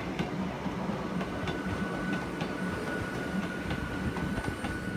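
Hakone Tozan Railway mountain train rolling slowly past at close range: a steady low rumble of wheels and bogies with scattered clicks over the rail joints, and a thin steady high tone from about a second in.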